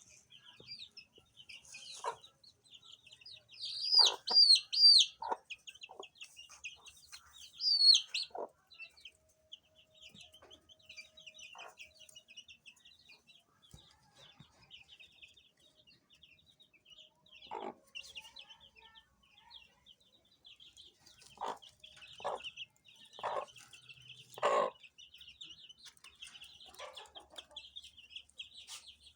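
A group of baby chicks peeping without pause, many short high chirps overlapping. A few louder, falling peeps stand out around 4 to 5 seconds in and again near 8 seconds, and short, lower sounds break in now and then, several in quick succession a little past 20 seconds.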